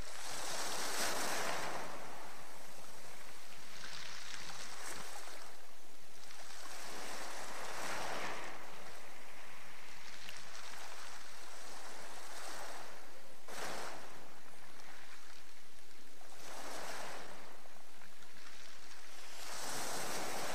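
Sea surf played as a sound effect: waves breaking and washing back in slow swells every few seconds.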